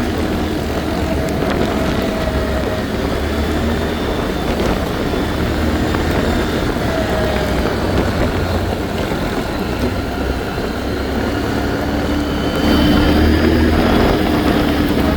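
ATV engine running steadily while riding, with wind and rolling noise; it gets louder about two-thirds of the way through.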